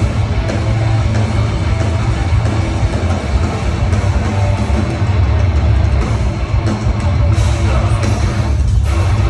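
Live heavy rock band playing loud through a festival PA, with distorted guitars and heavy bass, heard from the crowd. The band briefly drops out in the high end near the end before coming back.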